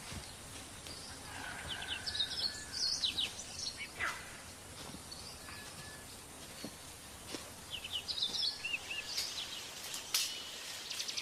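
Forest ambience with birds calling: quick clusters of chirps about two seconds in and again near nine seconds, a few short plain whistled notes, and a fast trill near the end. A few sharp snaps or clicks stand out over a steady background hiss.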